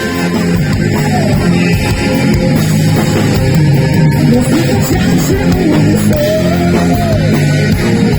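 Live heavy metal band playing loudly: distorted electric guitars, bass and drums, with a melodic lead line bending up and down in pitch.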